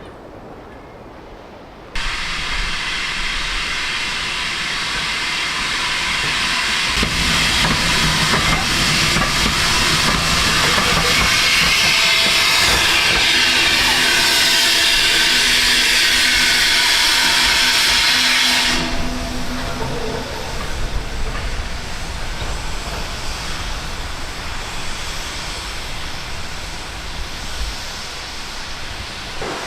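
Steam locomotive venting steam with a loud steady hiss, which starts abruptly and is joined by a low rumble a few seconds later. The hiss cuts off sharply past the middle, leaving a quieter hiss.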